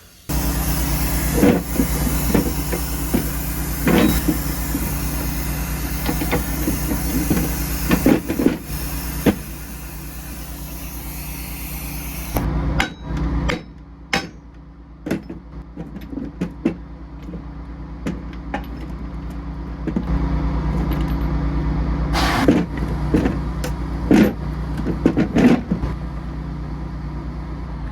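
Irregular hammer blows on metal over a steadily running engine. A high hiss runs under them and cuts off suddenly about halfway through.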